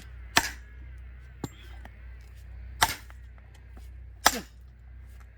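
Axe striking a standing log three times, about a second and a half to two and a half seconds apart, as the firewood is split.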